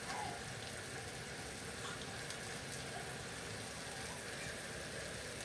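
Onions, tomatoes and spices frying in a pan, a steady, even sizzle.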